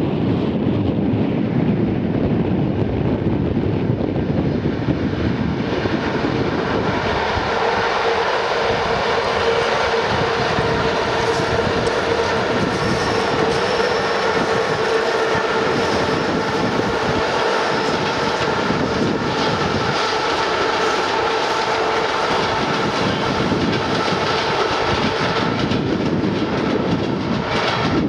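A large vehicle running past steadily, with a continuous rumble and, from about a quarter of the way in, a steady whining tone over it.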